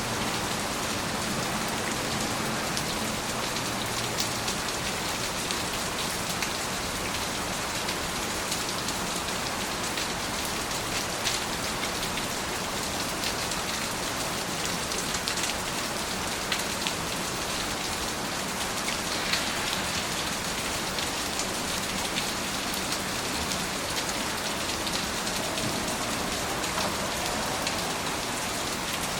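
Steady rain falling and pattering on a surface, with individual drops ticking sharply here and there.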